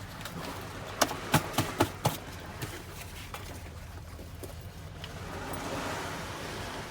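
Five or six sharp clicks or knocks in quick succession, between about one and two seconds in, over a steady low hum.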